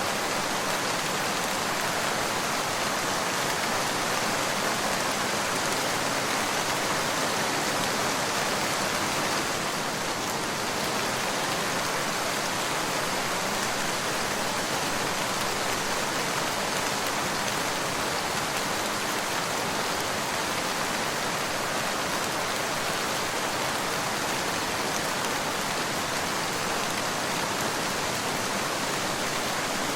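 Steady rain falling, an even hiss of many drops, dipping slightly about ten seconds in.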